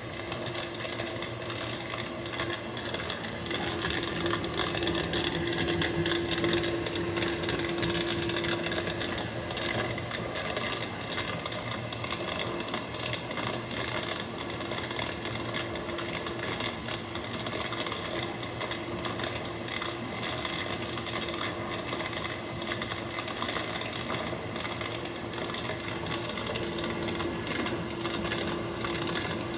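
Maytag dishwasher running with a steady grinding, crackling noise. A humming tone comes up stronger a few seconds in and again near the end.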